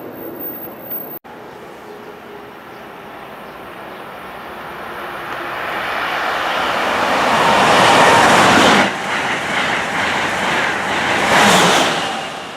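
Electric passenger train passing at speed, a rushing roar of wheels on rail that builds over several seconds, swells again near the end, then fades.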